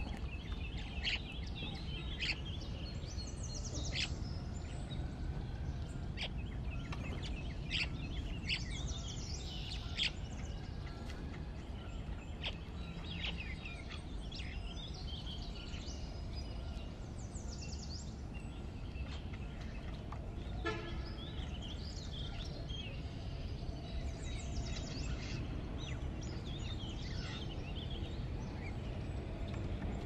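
Outdoor ambience of many small birds chirping and calling in short scattered notes over a steady low background rumble. One short, lower-pitched call stands out about two-thirds of the way through.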